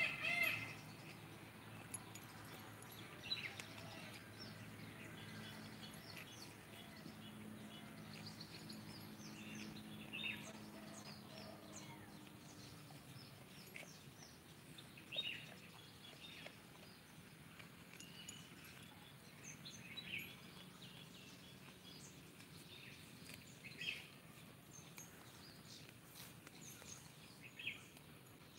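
Faint outdoor ambience with short bird chirps now and then, every few seconds, over a faint low hum that comes and goes in the first half.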